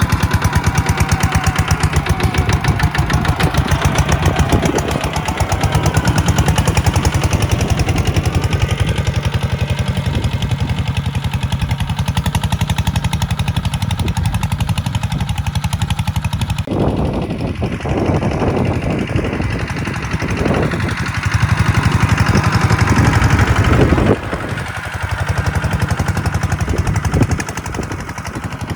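Kubota tractor diesel engine running with fast, even firing pulses. The sound changes abruptly about 17 seconds in and again at 24 seconds.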